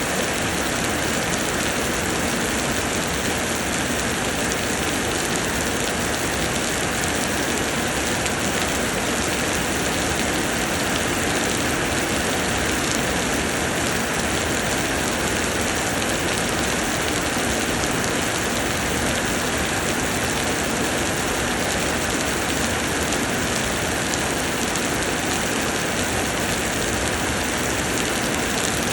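Summer rain pouring down steadily: a dense, even hiss of falling drops that keeps the same level without letting up.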